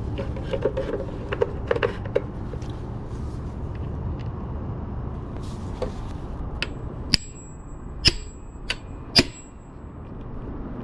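A hammer striking a hand impact driver four times, sharp metal knocks with a brief ring, to break loose Phillips screws on a pit bike engine cover. Before the strikes come small clicks and taps of tools being handled, over a steady low rumble.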